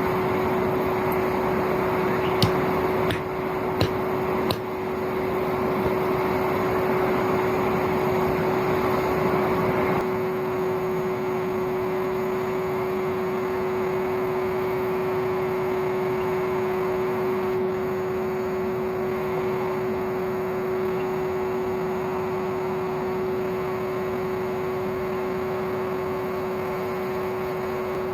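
An old vacuum cleaner's motor blowing air into a homemade coal forge, running steadily with a constant whine over a rush of air. Three sharp clicks sound a few seconds in.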